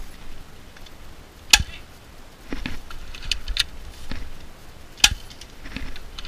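Airsoft gun firing single shots: two sharp cracks about three and a half seconds apart, with a few fainter clicks and snaps of other shots or BB hits between them.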